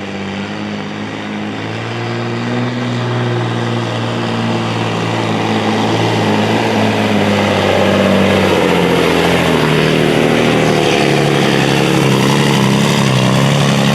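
Engine of a modified sport-class pulling truck running hard under load during a pull. It grows louder through the first half, then holds steady, with its pitch shifting in the second half.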